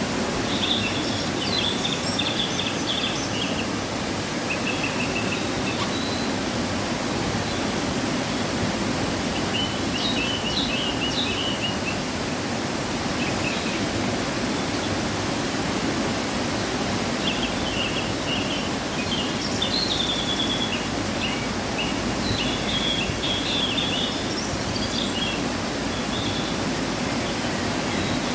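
Waterfall running full after rain, a steady rush of falling water. Small birds chirp over it in short bursts, several times.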